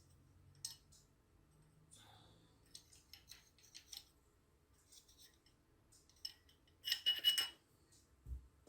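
Faint clicks and small metallic clinks of hand tools and parts being handled, with a brief run of ringing metal-on-metal clinks about seven seconds in.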